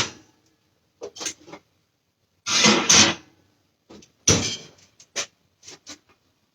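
Oven door, rack and baking pan being handled as a pan of biscuits goes into the oven: three short metal scraping, clattering bursts with a few small clicks and knocks between them.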